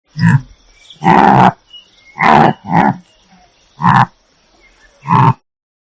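A large animal giving six short, loud calls in quick succession, each under half a second long.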